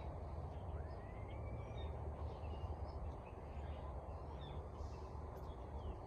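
Birds chirping and calling with short whistled notes and glides, over a steady low rumble.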